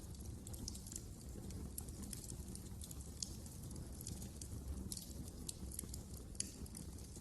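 Wood fire burning in a fireplace: a steady low rumble of flame with irregular sharp crackles and pops, a few louder snaps standing out.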